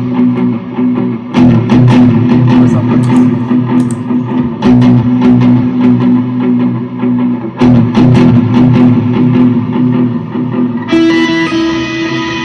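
Electric guitar played through an effects pedalboard into a UAFX Ruby amp pedal: full chords struck roughly every three seconds and left to ring. Near the end it changes to softer held, sustained tones.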